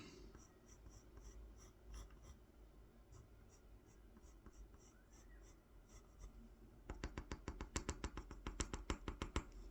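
Pencil drawing on a wooden honey dipper: faint, scattered scratches for most of the stretch, then a quick run of short strokes, about nine a second, in the last few seconds.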